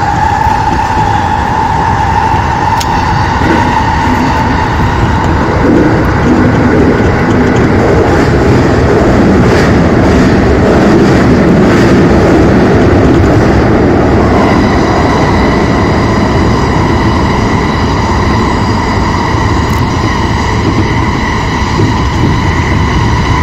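Electric commuter train running through a tunnel, heard from inside the cab: a steady rumble of wheels on rail, swelling louder in the middle. About two-thirds through, a set of steady high-pitched whining tones sets in over the rumble.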